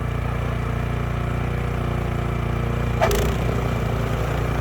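Snowblower engine running steadily under load, with a single brief knock about three seconds in.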